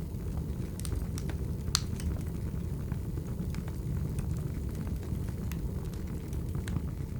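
Wood fire crackling: scattered sharp pops and snaps over a low steady rumble of the burning logs, with one louder pop about two seconds in.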